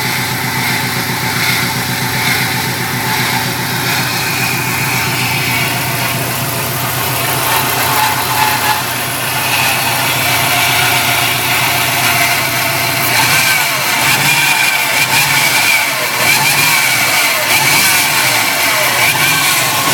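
2005 Subaru WRX's turbocharged flat-four engine running, the odd noise its owner is recording. The note is steady for the first two-thirds, then rises and falls as the engine speed changes.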